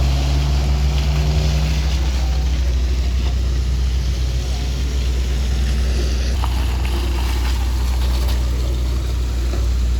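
A motor vehicle's engine running steadily close by, a continuous low rumble.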